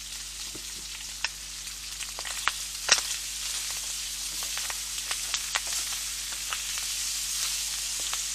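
Onion with ginger and garlic paste frying in sesame oil in a hot pan: a steady sizzle that gets a little louder about three seconds in. Occasional clicks and taps of stirring against the pan come through it, the sharpest about three seconds in.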